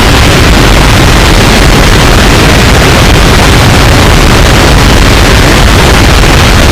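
Harsh noise music: a dense, heavily distorted wall of noise held at full loudness without a break, with a heavy low rumble beneath a constant hiss.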